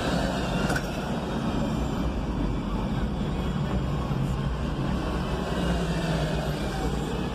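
City road traffic heard through an open vehicle window: engines running steadily with road noise, including a city bus alongside. A short click comes about a second in.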